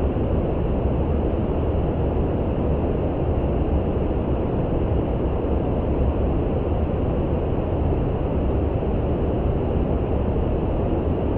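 Steady brown noise: a deep, even rushing hiss that never changes.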